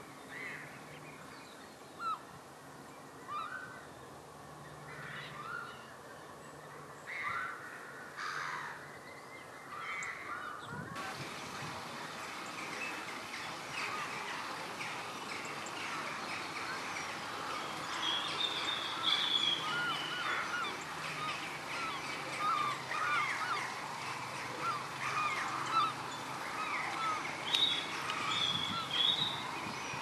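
Wild birds calling: a few separate short calls at first, then from about a third of the way in many birds calling at once, getting louder near the end.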